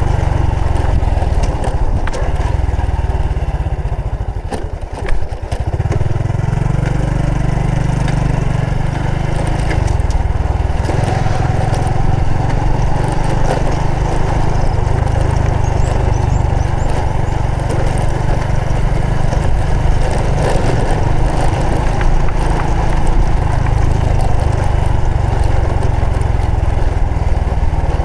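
Honda Supra X 125 FI motorcycle's single-cylinder four-stroke engine running under way, with heavy low rumble on the microphone. The sound dips briefly about four to five seconds in, then carries on steadily.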